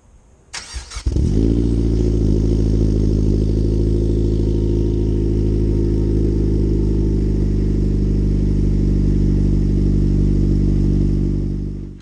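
A 2013 Chevrolet Sonic's 1.4-litre turbocharged four-cylinder engine is started. It cranks briefly, catches about a second in, flares up and settles to a steady, loud idle, then stops near the end.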